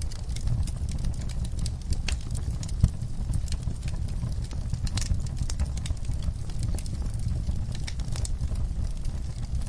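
Wood log fire crackling, with irregular sharp pops and snaps over a steady low rumble of the flames.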